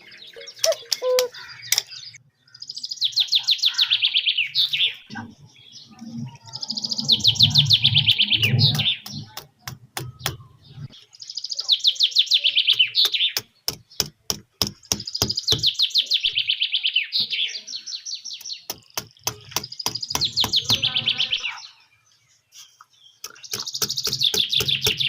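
A bird singing rapid high trills, each phrase lasting about two seconds, repeated six times with short gaps. Between the phrases come trains of sharp, evenly spaced clicks.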